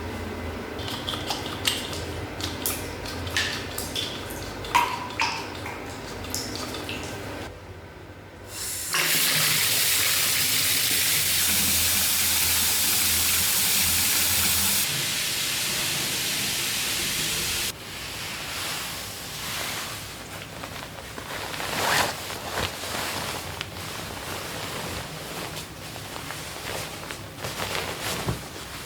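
Bath tap running hard, water gushing into the tub for about nine seconds before stopping suddenly. Light clinks and knocks come before and after it.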